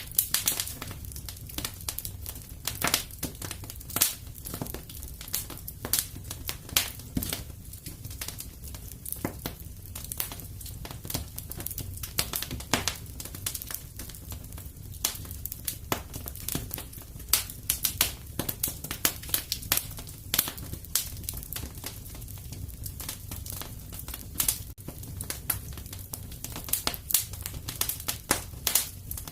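Wood fire crackling and popping: irregular sharp snaps, several a second, with louder pops scattered throughout over a steady low rumble of the flames.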